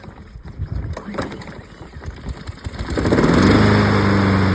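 Honda HRN lawn mower's single-cylinder four-stroke engine being cranked with the pull cord, catching about three seconds in. Its speed rises briefly, then it settles into steady running.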